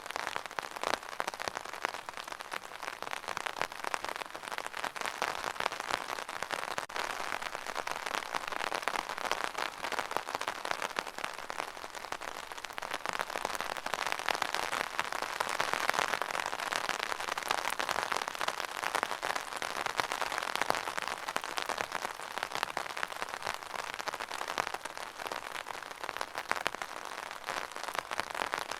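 Steady rain, a dense patter of many drops hitting a surface, swelling a little in the middle.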